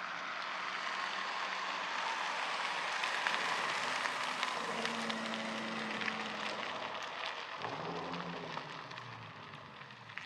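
A car driving past, its engine and exhaust noise swelling and then fading away.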